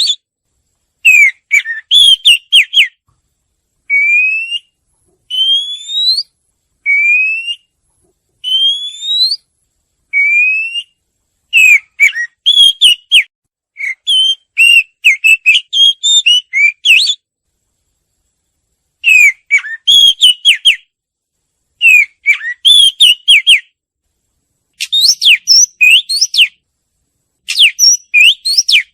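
Murai songbird (murai cacing kampung) singing in bouts of clear whistled phrases with short pauses between them. Between about four and eleven seconds in it repeats single rising whistles. The rest is rapid runs of varied, quick notes.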